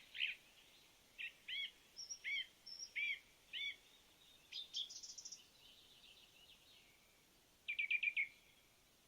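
Small birds chirping: a string of short, arched high chirps, a brief higher burst about five seconds in, and a quick run of four notes near the end.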